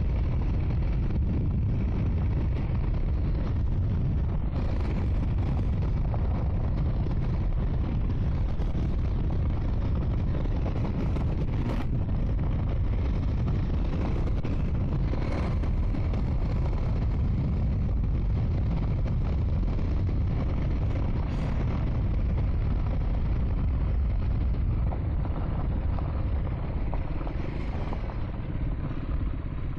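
Triumph Scrambler 400 X single-cylinder engine running steadily while the bike is ridden along a gravel dirt track, with a deep, even rumble.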